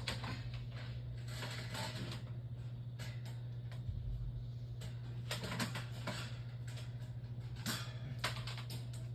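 Small plastic fan heaters being handled and moved: scattered irregular clicks, light knocks and rustles, over a steady low hum.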